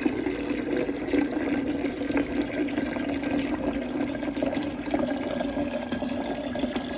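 Water running steadily from a water-purifier tap into a stainless steel electric kettle, filling it.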